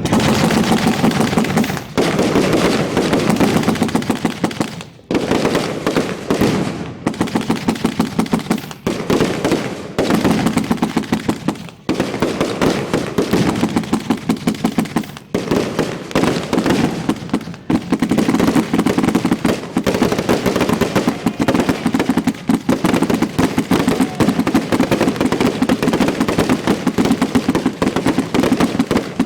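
Fireworks finale barrage: a rapid, nearly continuous string of loud bangs from fireworks going off up close, broken by a few brief lulls.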